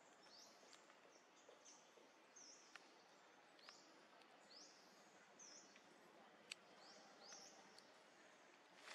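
Faint outdoor background with a small bird calling in short, high chirps, one or two a second, over a soft hiss, with a few faint clicks.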